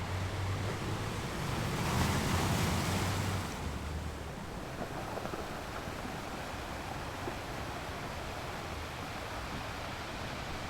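Ocean surf: a wave breaks and swells louder about two seconds in, then settles into a steady wash.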